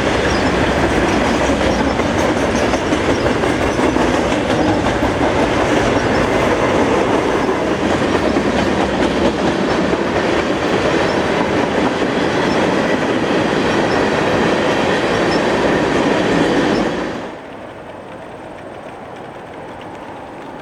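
A passing train's cars rolling along the rails, loud and steady. Then, about three-quarters of the way through, the sound drops suddenly to a much quieter steady noise.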